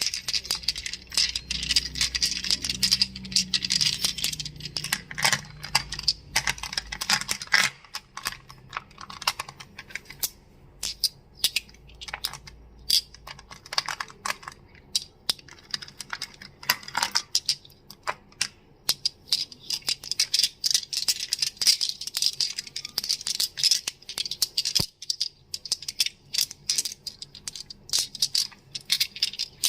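Crystals clicking and clacking against each other in a dense run of irregular sharp clicks.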